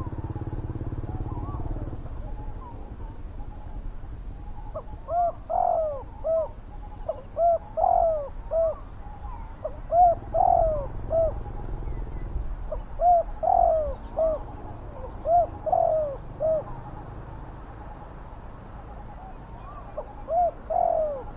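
Spotted doves cooing in bouts of several rounded coos, with pauses of a few seconds between bouts. A low rumble fades out in the first two seconds.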